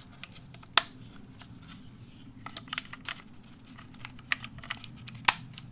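Scattered sharp plastic clicks and light knocks from rocker switches and a plastic switch panel being handled and fitted, with two louder snaps, one about a second in and one near the end.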